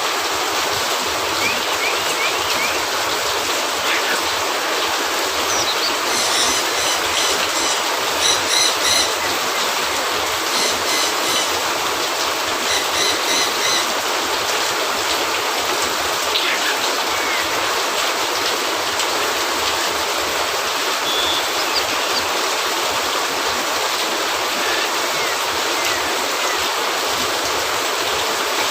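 Steady heavy rain hissing on a cabin roof. Between about six and fourteen seconds in, a few quick groups of short, high chirps sound over it.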